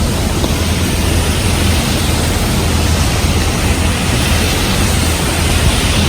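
Heavy rain and strong wind making a steady, even hiss, with a strong low rumble underneath.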